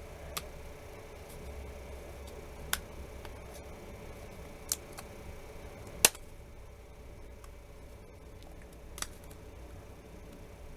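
Sharp clicks of a pry tool working the cracked screen glass loose from an LG K373 phone: about five scattered clicks, the loudest about six seconds in, over a faint steady hum.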